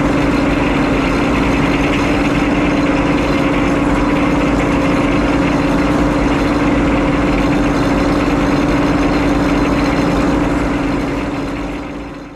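Engine driving a Frick sawmill, running steadily at one constant speed with a strong, unchanging pitch; the sound fades out near the end.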